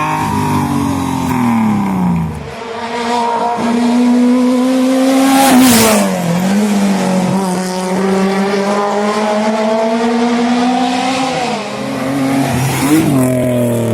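Racing car engine at full throttle during a hillclimb run, its pitch climbing and then dropping sharply several times as it shifts gears, with a loud peak about six seconds in.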